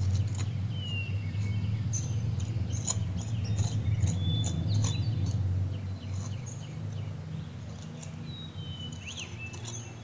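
Small birds chirping and calling in short whistles and glides, over a steady low hum that gets quieter about six seconds in.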